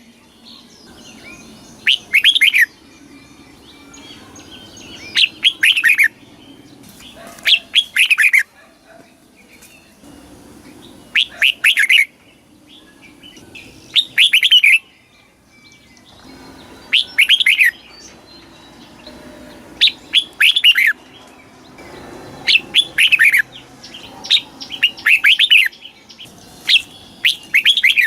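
Red-whiskered bulbul singing: loud short phrases of several quick falling notes, repeated about every two to three seconds.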